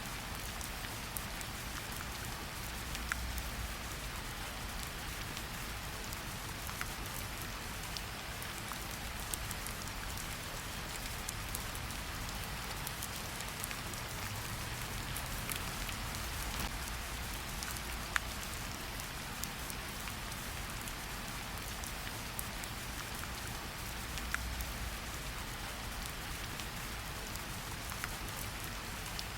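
Steady rain falling in a forest: an even hiss of rainfall with many separate drops ticking on leaves and surfaces, and a low rumble underneath.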